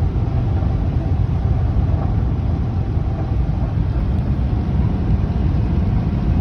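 Steady, loud low rumble of a vehicle's engine and road noise, heard from inside the moving vehicle's cabin.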